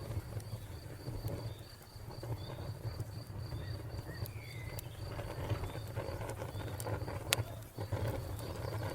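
Wood fire crackling with scattered sharp pops over a low steady rumble, with a cricket chirping in a fast, even pulse of about five chirps a second.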